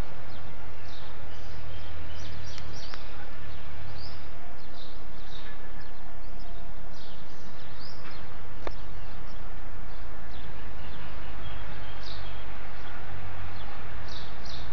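Birds chirping with short, quick calls, repeated many times over a loud, steady hiss and low rumble.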